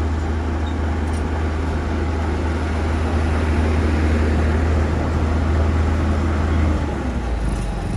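Bulldozer's diesel engine running with a steady low drone, its note shifting and easing slightly about seven seconds in.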